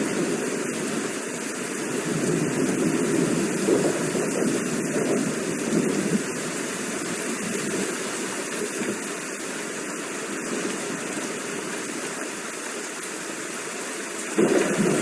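Steady rain, with a lower rushing layer that rises and falls and turns louder suddenly near the end.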